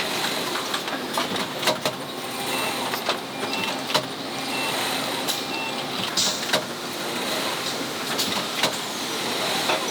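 Motor assembly line machinery running steadily, with frequent sharp clicks and clacks and a few short high beeps.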